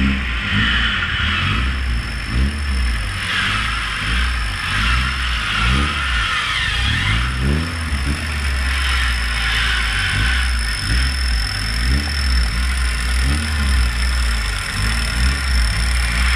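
Off-road 4x4's engine revving up and down over and over, under a steady deep rumble, as it works the vehicle through the course.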